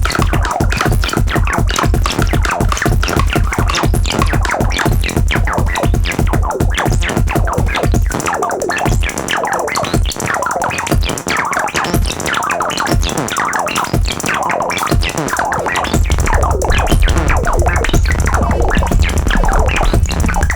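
Experimental electronic music: dense, rapid glitchy clicks over a heavy bass. The bass drops out about eight seconds in and comes back later.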